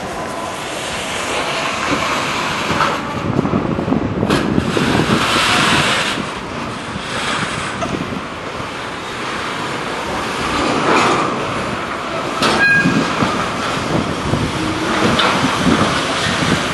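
Freight train rolling past at close range: a wide, uneven rumble and rush of wheels on rail that swells and fades, with a few sharp knocks and a brief high squeal about three-quarters of the way through.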